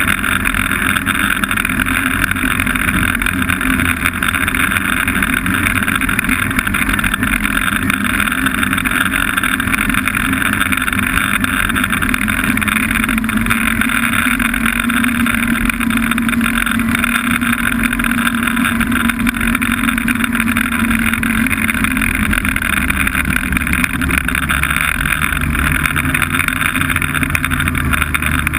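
Snowmobile engine running steadily while riding, its note holding at one pitch through the middle.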